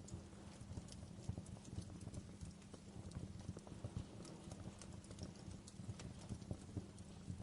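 Wood campfire crackling, with irregular sharp pops and snaps over a low, steady rumble of the burning fire.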